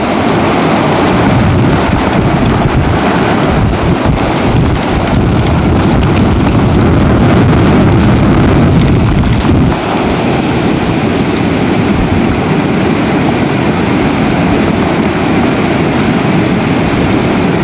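Very strong storm wind buffeting the nest camera's microphone: a loud, continuous rushing noise that eases slightly about ten seconds in.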